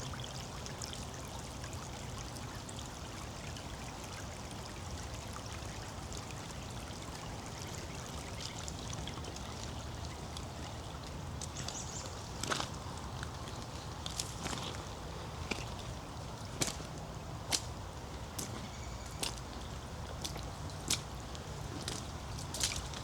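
Creek water trickling and pouring steadily. From about halfway through, a series of sharp clicks, roughly one a second, sounds over it.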